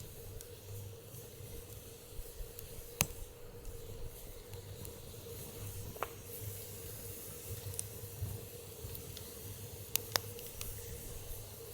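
Wood fire burning in a steel fire pit: a soft steady hiss with a few sharp crackling pops, the strongest about three seconds in and two close together near ten seconds.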